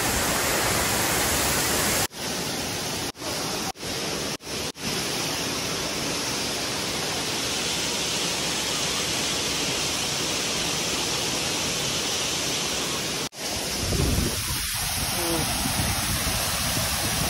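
Waterfall: heavy falling water making a steady, dense rush. It is broken by a few very brief dropouts.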